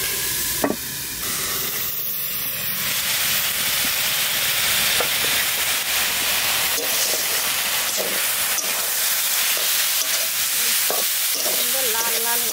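Shredded cabbage frying in oil in a metal karai, a steady sizzle, with light scrapes and knocks as it is stirred.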